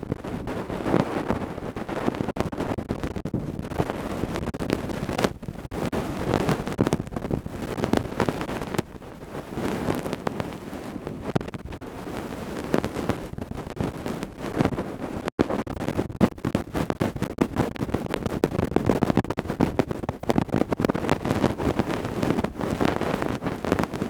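Close-miked ear-cleaning ASMR: tools scratching and rubbing in an ear, giving a dense crackling rustle with a sudden break about fifteen seconds in.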